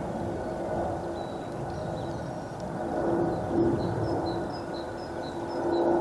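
Jet airliner engines running with a steady rumble and a held low whine, while a small bird chirps a quick series of short high notes in the second half.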